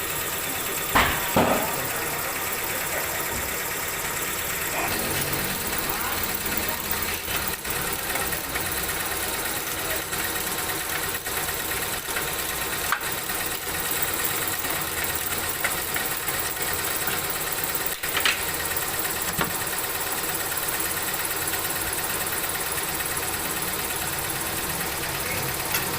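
A steady mechanical hum, like an engine idling, with a few sharp knocks about a second in and again past the middle.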